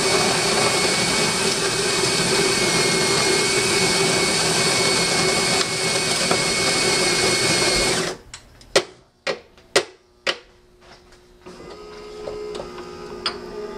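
Saeco Vienna Plus super-automatic espresso machine's built-in grinder grinding beans for about eight seconds, stopping abruptly. Several sharp clicks and knocks follow as the brew unit moves, then a fainter steady hum starts.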